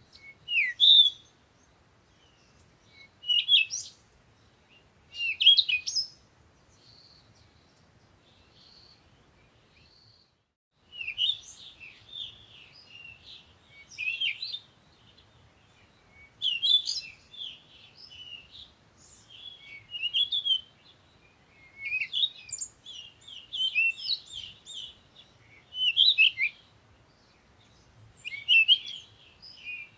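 Birds chirping in short, high phrases, a couple of seconds apart at first. There is a lull about a third of the way in, then busier, overlapping chirping.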